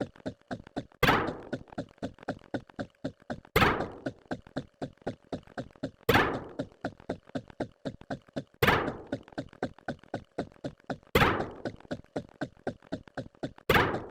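Looping sound effects: a loud thunk about every two and a half seconds, with quieter clicks several times a second between them in an even rhythm.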